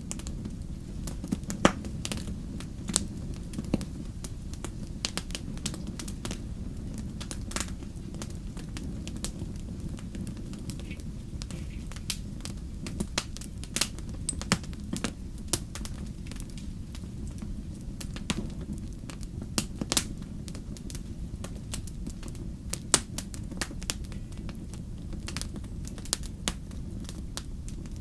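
Wood fire crackling in a fireplace: a steady low rumble of the flames with frequent irregular sharp pops and snaps.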